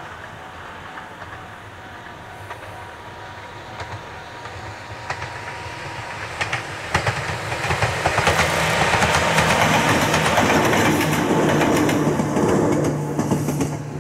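Ohmi Railway 900-series electric train approaching and passing, its wheels clacking over the rail joints. It grows steadily louder, is loudest for several seconds past the middle, then fades as it runs away.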